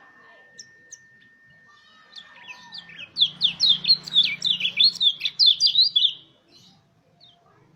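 White-eye (pleci) singing: a few scattered high chirps, then about three seconds in a loud, fast rolling run of short, sharp descending notes that lasts about three seconds.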